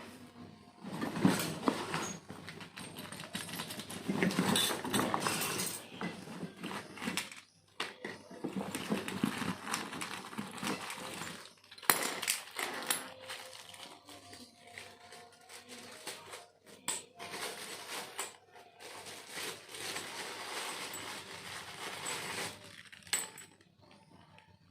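Metal clinking, scraping and knocking of tools and parts as a refrigerator compressor is worked on and taken apart, with a sharp metallic knock about a second in and another about twelve seconds in.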